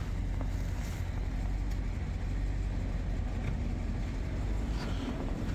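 Plow truck driving, with a steady low rumble of engine and road noise.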